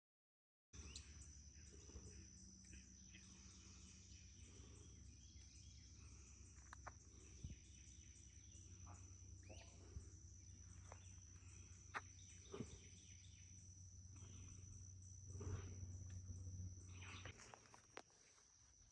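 Faint night insect chorus, a steady high-pitched drone, starting about a second in over a low steady hum, with a few faint clicks.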